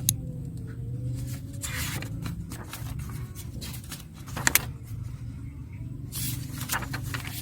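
Room tone at a desk: a steady low hum with several short rustles and light clicks over it.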